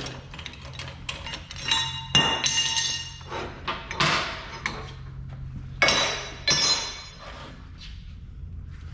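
Steel snowblower skid shoes clanking as they are struck and handled, with several sharp metal hits that ring on briefly, over a steady low hum.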